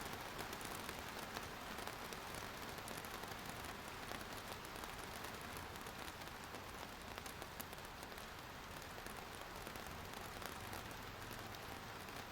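Steady rain falling, a continuous hiss of many small drops ticking on surfaces.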